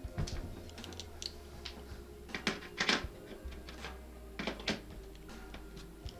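A series of sharp clicks and light knocks, about six spread unevenly, from handling the disassembled LED TV's panel and parts. A low steady hum lies underneath.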